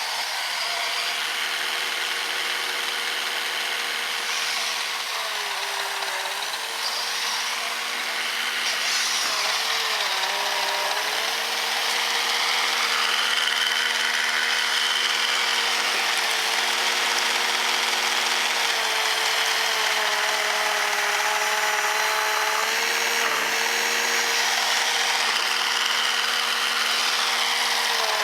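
Brushed 550 electric motor of an RC snowblower driving its auger through powder snow: a steady electric whine that sags in pitch briefly a few times as it takes load, over a constant hiss.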